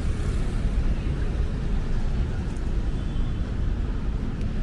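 Steady road traffic rumble on a city street: an even, deep hum of passing vehicles with no single event standing out.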